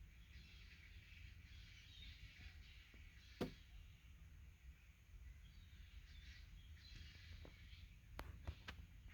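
Quiet lakeside ambience: a low steady rumble with faint, distant bird calls of gulls, and a single sharp click about three and a half seconds in.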